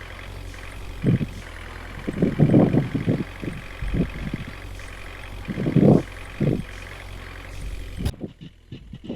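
Water tanker's engine idling steadily, with a few short low thumps over it. The sound changes abruptly about eight seconds in.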